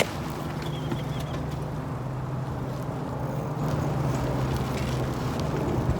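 A motor vehicle's engine running steadily, a low hum that gets a little louder in the second half.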